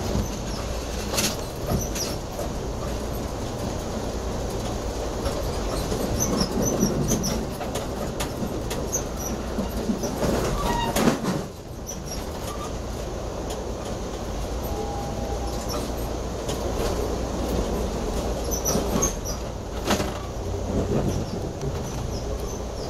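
Passenger train running along the track, heard from inside the car: a steady rumble of wheels on rail with several sharp knocks, the loudest about eleven seconds in, and a few brief high-pitched squeals from the wheels.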